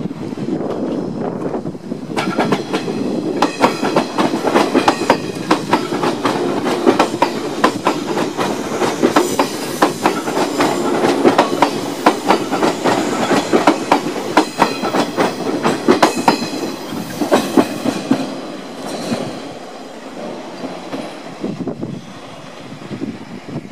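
JR 185 series electric multiple unit passing close by, its wheels clattering over the rail joints in quick clicks. It is loudest in the middle and fades as the train moves off near the end.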